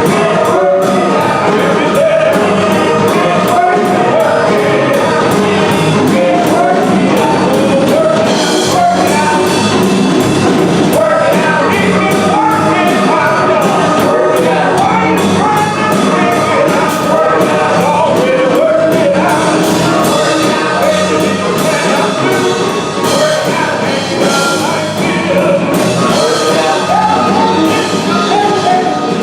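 Church music: voices singing over instrumental accompaniment with a steady beat.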